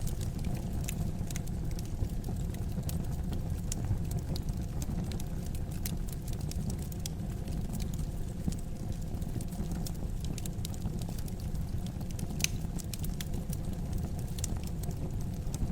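Wood fire in a fireplace crackling, with irregular sharp pops and snaps over a steady low rumble, one pop standing out about twelve seconds in.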